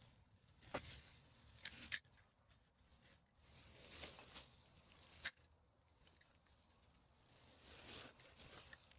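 Irregular rustling and crackling of forest-floor debris and rubbish being handled, with a few sharp snaps or clicks, one about a second in, one near two seconds and one a little past five seconds.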